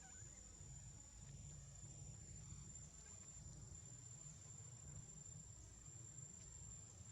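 Near silence: faint, steady high-pitched insect drone over a low rumble.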